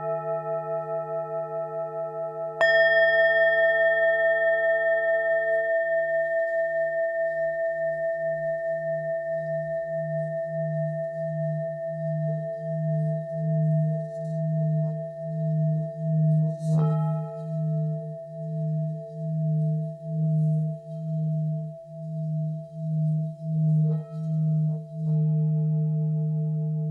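Tibetan singing bowls ringing with long sustained tones. A bowl is struck sharply about two and a half seconds in and again around seventeen seconds, and the deep low hum swells and fades about once a second.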